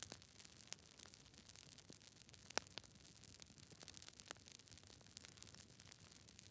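Wood fire crackling: irregular small snaps and ticks over a soft hiss, with one louder pop about two and a half seconds in.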